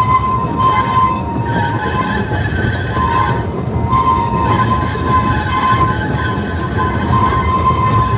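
Narrow-gauge train running, a steady rumble under a high-pitched squeal that drops out briefly twice and returns.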